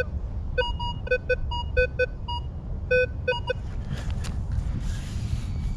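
Minelab Vanquish 440 metal detector sounding a run of short target beeps in two pitches, low and higher, over a target in the sand. The beeps stop about three and a half seconds in, and a steady low rumble runs underneath.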